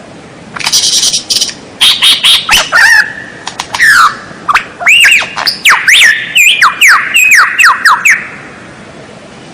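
White-rumped shama (murai batu) singing loudly: a harsh, raspy burst, then a rapid series of whistled notes that slide up and down. The song stops about eight seconds in.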